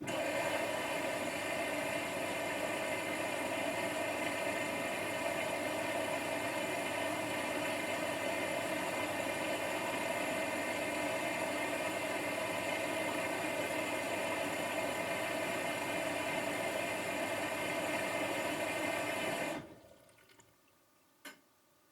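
Washing machine running: a steady rushing sound that cuts off suddenly a couple of seconds before the end, followed by a single faint click.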